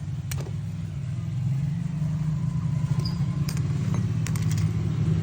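A steady low machine hum, with a few sharp metallic clicks and taps: one just after the start and several more near the end.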